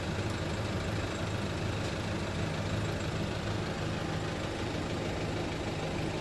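Dump truck's diesel engine running steadily at low speed on a muddy road, a constant low drone.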